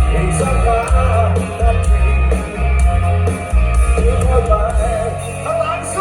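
Live Thai rock band playing loudly, with heavy bass and drums under a sung melody.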